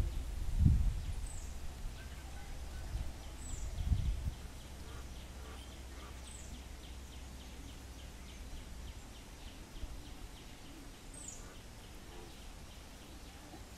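Outdoor garden ambience: a small bird repeats a short, high, falling call every few seconds, over a faint rapid ticking chatter. A low rumble on the microphone, with a few thumps, is loudest in the first few seconds.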